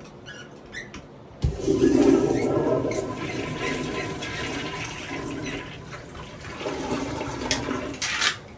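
Rebuilt Sloan flushometer valve flushing a toilet: water rushes into the bowl, starting suddenly about a second and a half in and running for several seconds, with a second surge near the end.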